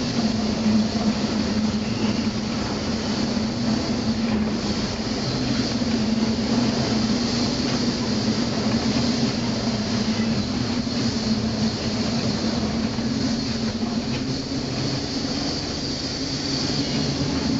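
Steady drone of ship's machinery, a constant low hum with a hiss over it, unchanging in level.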